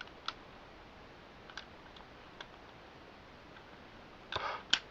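Small plastic clicks and taps of Beyblade X parts being handled and fitted together: a few faint scattered clicks, then a short burst of louder clicks near the end.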